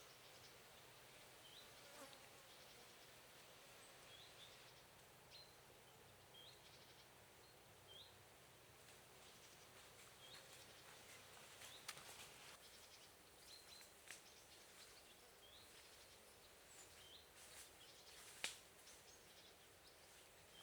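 Faint woodland ambience: a small bird giving short high chirps every second or two, over a low buzz that stops about halfway through, with a few sharp clicks.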